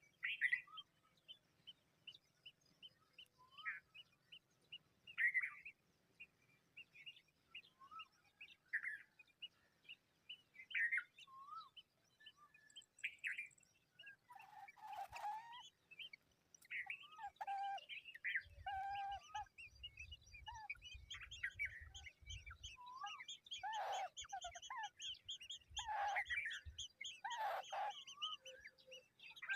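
Birds chirping: at first short single calls a second or two apart, then from about halfway a dense, continuous run of chirps broken by a few harsh, scratchy calls.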